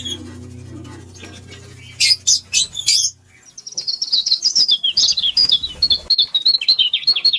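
Lovebirds chirping: a few loud, sharp chirps about two seconds in, then from about halfway a rapid, continuous run of high twittering chirps.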